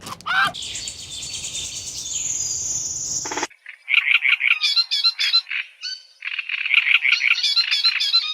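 Small animals calling: a steady high-pitched buzzing trill for about three seconds, then after a brief gap a dense chorus of rapid chirps and trills.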